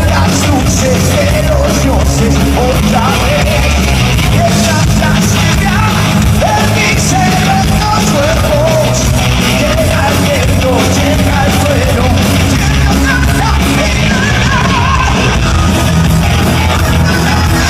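Live rock band playing loud and heavy, with a shouted, yelled vocal over dense drums and bass.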